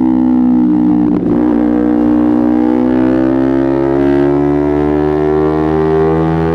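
Kawasaki Ninja 250R's parallel-twin engine under way, with a brief break in the note about a second in, like a gear change, then the revs climbing slowly and steadily as the bike accelerates.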